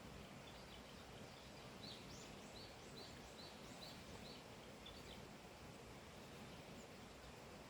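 A bird singing a run of short, high notes, about two a second, over a faint steady outdoor hiss.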